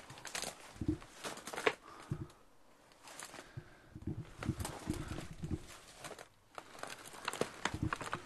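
Footsteps over a debris-strewn floor, a run of irregular crunches, knocks and crackles, with a quieter lull a couple of seconds in.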